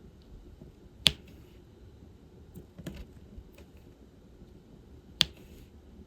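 Sharp plastic clicks and light taps from diamond-painting tools: two loud clicks about four seconds apart, with a few softer ticks between them.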